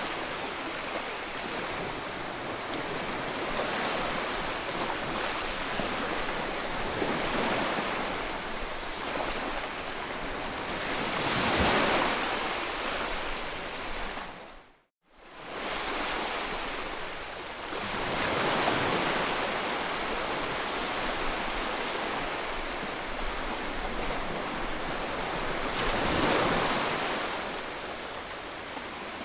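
Ocean surf: waves breaking and washing in, swelling and fading every several seconds. The sound drops out abruptly for a moment about halfway through, then the surf resumes.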